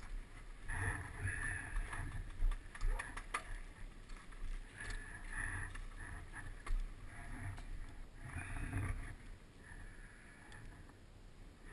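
Trail motorcycle engine running unevenly at low revs while rolling slowly along a rough gravel track, rising and falling in short spells, with a few clicks and knocks. It grows quieter near the end.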